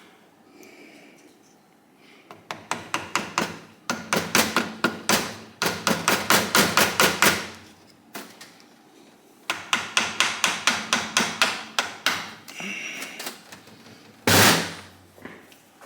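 Hammer tapping on a Kawasaki KZ1000 engine part held on locating dowels, to knock it free. The taps come in four quick runs of about four blows a second, then one single heavier blow near the end.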